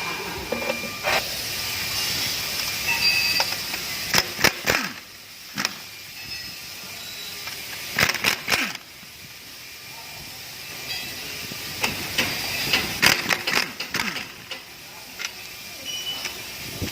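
Scattered metallic clicks and knocks of tools and transmission parts being handled during a truck gearbox teardown, over a steady hiss, with a few clusters of sharper knocks.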